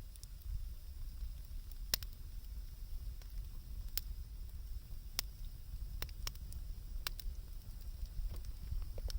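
Wood campfire crackling: sharp, separate pops about once a second over a low, steady rumble.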